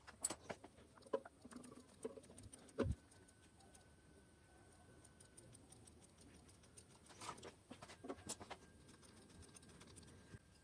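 Scattered light clicks and knocks at irregular intervals, with one louder, duller knock about three seconds in and another cluster of clicks past the middle.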